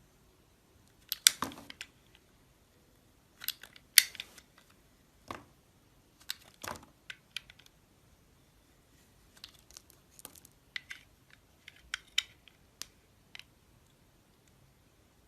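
Knife cutting into a bar of soap: a series of separate sharp crunches and short scraping crackles, irregularly spaced with quiet gaps, the loudest about one and four seconds in.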